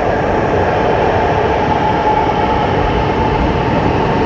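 Orange Line metro train running on its rails: a steady heavy rolling noise with a high, even whine.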